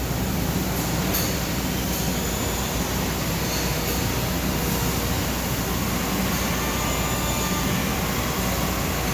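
Okuma Genos L250E CNC lathe running: a steady mechanical noise, with a faint high whine that rises and falls twice.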